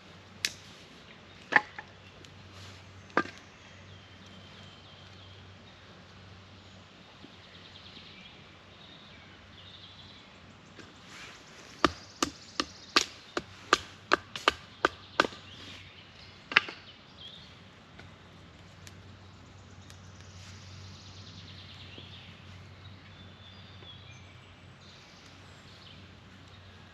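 Sharp chopping strikes on wood: three spaced blows near the start, then a quick run of about nine blows in the middle.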